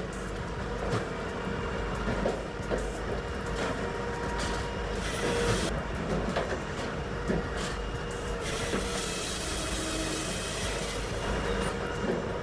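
Tajfun RCA 480 firewood processor running: a steady mechanical drone with a few short knocks scattered through.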